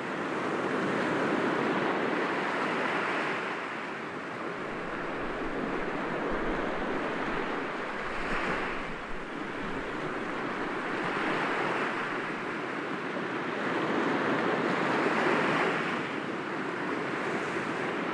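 Sea waves breaking gently against rocks, a steady wash that swells and eases every few seconds, with some wind on the microphone.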